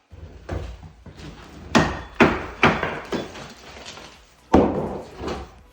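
Hammer blows knocking apart the brickwork of an old brick stove as it is dismantled: about eight sharp, irregular strikes on brick and mortar, the loudest a little under two seconds in and again about four and a half seconds in.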